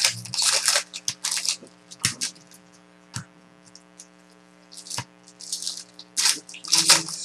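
Trading-card packs and cards being handled: bursts of crinkling and rustling as wrappers are opened and cards shuffled, with a few sharp clicks in between.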